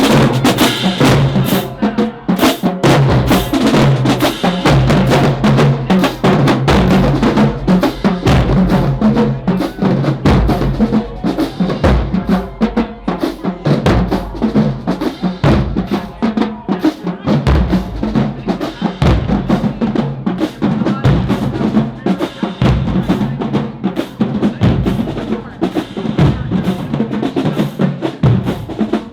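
Marching band drumline playing a loud cadence of rapid snare drum strokes and rolls over pounding bass drums.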